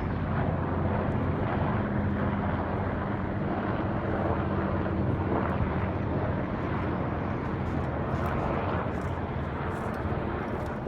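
Military helicopters flying low overhead: a loud, steady drone of rotors and engines with a deep hum.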